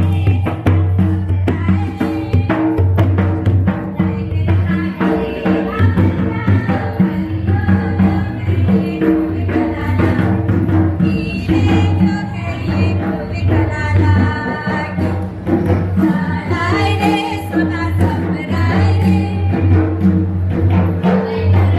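Folk music: voices singing over drums and hand percussion with a steady beat.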